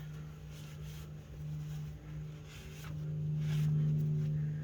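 A steady low hum runs throughout, with a few faint rubbing strokes of a rag wiping the engine block around the crankshaft flange.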